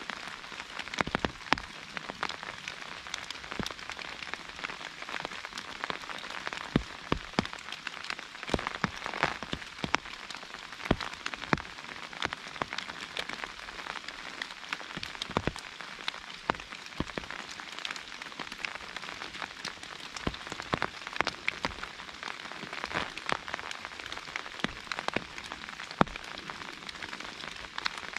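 Steady rain on an umbrella: a constant hiss of rain with frequent, irregular sharp taps of single drops striking the canopy.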